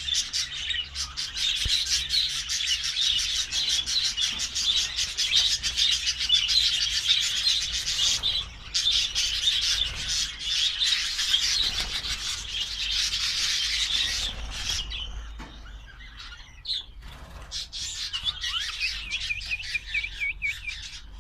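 Lovebirds chattering in a dense, rapid stream of high chirps that thins to sparser calls about fourteen seconds in, with a run of repeated chirps near the end.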